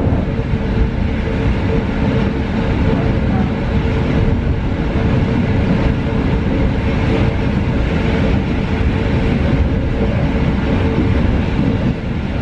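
Inside a moving EN71 electric multiple unit: steady rumble of the wheels and running gear on the track, with a constant hum running underneath.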